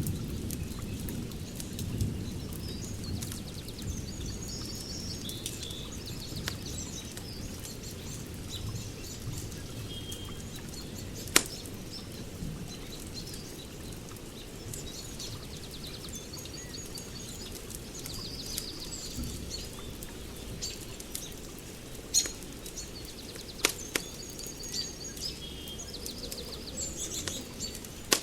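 Birds chirping and twittering on and off over a low steady rumble, with a few sharp pops from a crackling wood fire, the loudest a little over a third of the way in.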